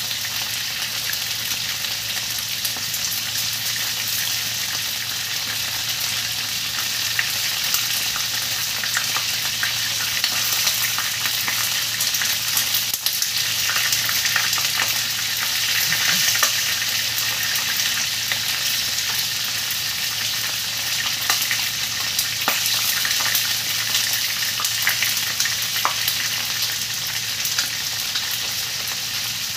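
Pandan-leaf-wrapped chicken pieces frying in sauce in a nonstick pan, a steady sizzling hiss full of small crackles.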